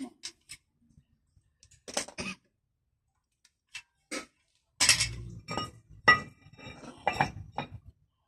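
Hard objects being handled: a few sharp clicks, then a cluster of knocks and clinks in the second half, several ringing briefly like metal.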